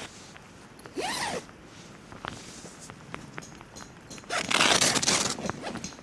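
A zipper pulled in two short runs: a brief rasp that rises and falls in pitch about a second in, then a louder, longer rasp a little after four seconds. Light scattered ticks between them.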